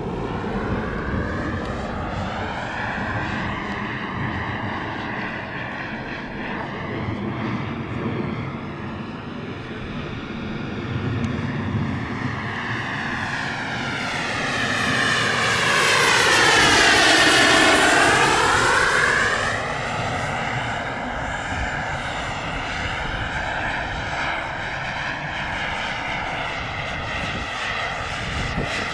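Radio-controlled model aircraft flying continuously, its engine or rotor sound swelling and sweeping in pitch as it passes closest a little past the middle, then easing off again.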